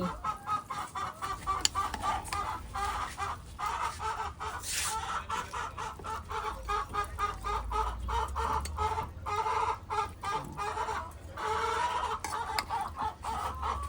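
Chickens clucking on and off, short repeated calls, over a fast ticking rattle.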